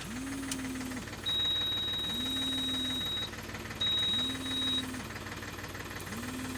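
Case 770 FX Plus backhoe loader's diesel engine running steadily, with a low tone that swells and holds about every two seconds. A high, steady beep sounds twice, the first about two seconds long and the second shorter.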